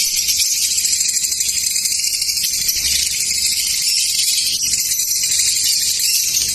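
A flock of lovebirds chirping and chattering all at once, a continuous high-pitched mass of calls with no pauses.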